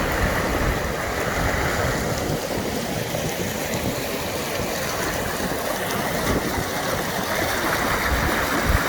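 A river in spate, swollen by heavy rain, rushing loudly and steadily.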